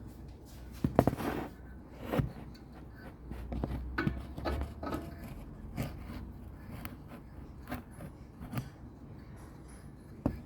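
Scattered metal clicks, knocks and scrapes of a front brake caliper and its guide pins being handled and refitted by hand, the loudest cluster about a second in.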